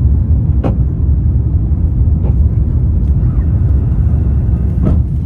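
Steady low cabin rumble of an Airbus A350-900 climbing after takeoff: engine and airflow noise heard from inside the cabin, with two brief clicks.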